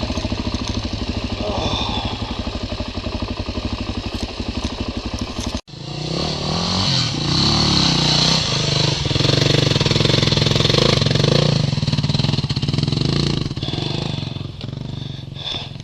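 Motorcycle engine running while riding, with wind noise. The sound breaks off abruptly about five and a half seconds in, then resumes with the engine speed rising and falling.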